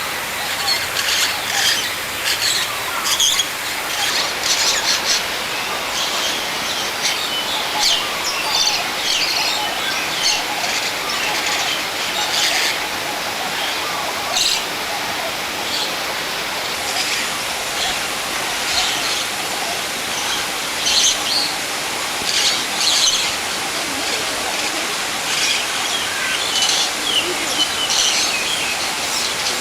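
Many birds chirping and calling in short, high notes, one after another, over a steady background hiss.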